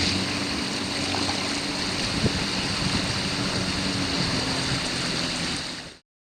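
Steady wash of surf on a rocky shore, with a faint low hum and a single knock a little over two seconds in; the sound cuts off abruptly just before the end.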